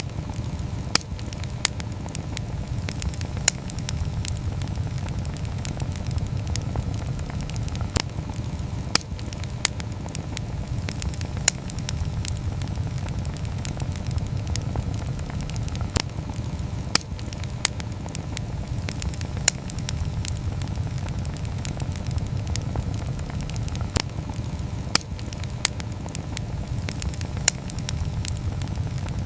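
Wood campfire burning: a steady low rumble with sharp crackles and pops every second or few seconds.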